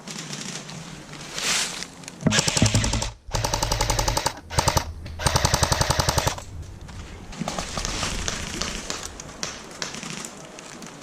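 Airsoft gun firing on full auto: several rapid bursts of evenly spaced shots a couple of seconds in, the longest lasting over a second, followed by fainter, more scattered firing.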